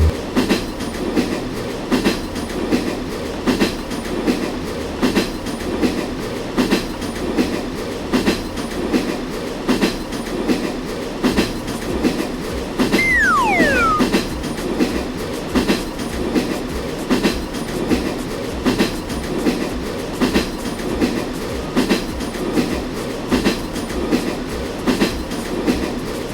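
Train running along the track, its wheels clicking over the rail joints in a steady, regular clickety-clack. About halfway there is a brief falling whistle-like tone.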